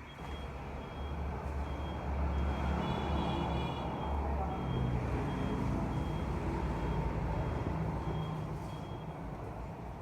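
Vehicle reversing alarm beeping at an even pace over a running engine's low rumble, which grows louder for a few seconds mid-way.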